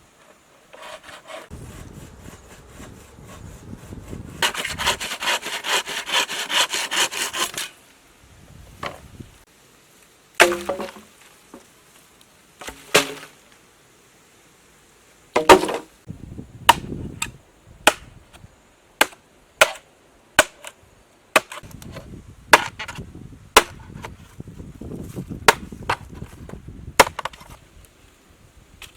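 Wood being worked by hand: a rasping run of rapid strokes lasting about three seconds, then a long series of sharp, single knocks at irregular spacing.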